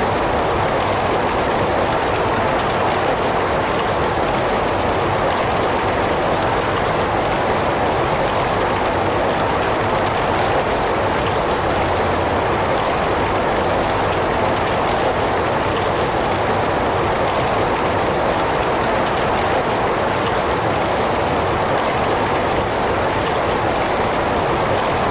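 Heavy rain falling steadily, an even hiss of rain with no breaks or changes.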